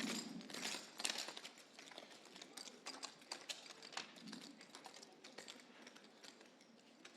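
Scattered, irregular light clicks of clogging taps on a stage floor, louder in the first second or so and then fainter.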